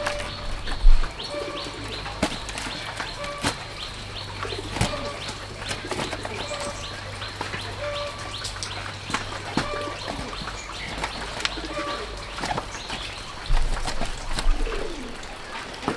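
Birds calling, with short repeated notes about once a second and a high, fast chirring, over scattered sharp clicks and taps.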